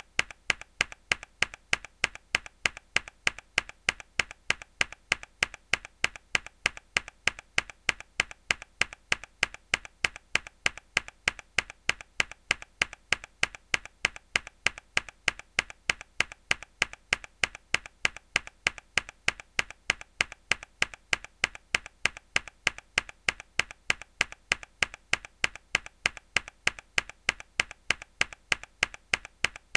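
A single mechanical keyboard key pressed hard over and over, a sharp clack about twice a second, each followed by a quieter click as the key comes back up, in an even, unchanging rhythm.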